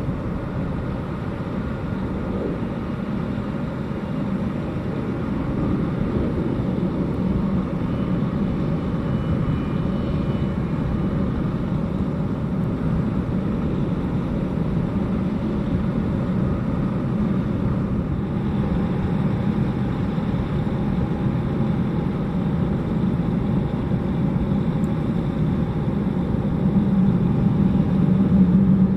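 Boeing 757-200's Pratt & Whitney PW2037 jet engines running on the ground, a steady low rumble that grows somewhat louder toward the end.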